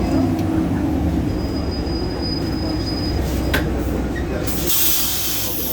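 Solaris Urbino 18 bus with its DAF PR265 diesel engine running, a steady low rumble. A thin high squeal sounds for about two seconds from a second in, a couple of clicks follow, and a burst of compressed-air hiss comes near the end.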